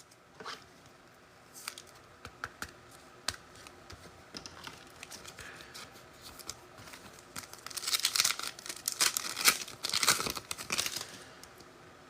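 A trading-card pack's wrapper being torn open and crinkled. A few light clicks and ticks come first, then about two seconds from the end comes a louder run of crackling and tearing.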